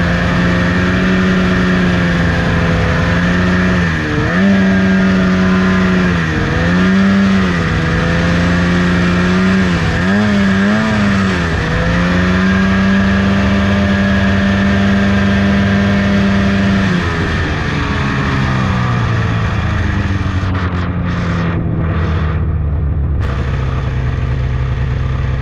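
Lynx RS600 snowmobile engine running at raised revs, the speed sagging and recovering a few times. In the second half the revs wind down over several seconds to a lower, steady idle.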